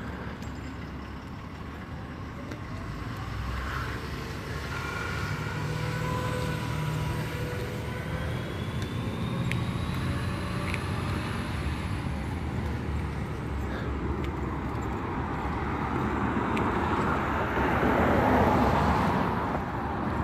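Road traffic: vehicles driving past on a street, with engine hum and tyre noise. One vehicle passes close about three-quarters of the way through, and its noise swells and then fades.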